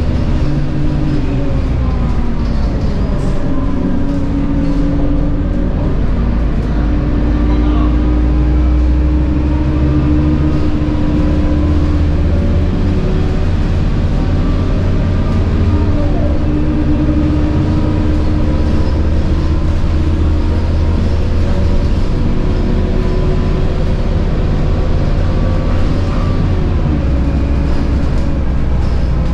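Scania K230UB bus under way: its 9.3-litre Scania DC9 diesel runs with a steady low rumble, and the ZF Ecomat 6HP504C automatic gearbox whines, the whine holding level for stretches and gliding up and down in pitch a few times as the bus accelerates and changes gear.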